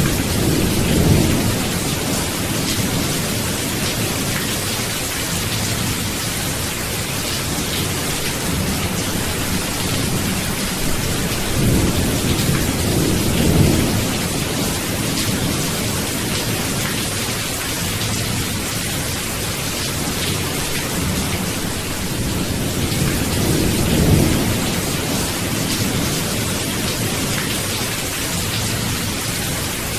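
Steady heavy rain with low rolling thunder, the rumbles swelling about a second in, again around twelve to fourteen seconds, and near twenty-four seconds.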